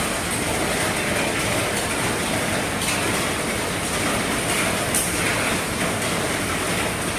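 Heavy rain falling steadily on the roof of an RV, a dense, even patter with a few sharper drop hits standing out, one about five seconds in.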